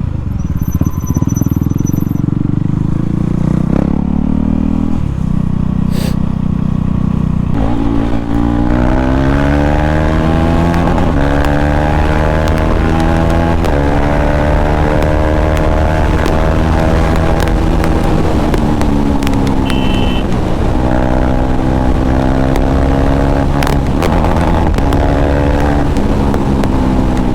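KTM Duke 390's single-cylinder engine running without its muffler, loud and open, as the bike rides. From about eight seconds in, the pitch climbs and drops back several times as it accelerates through the gears.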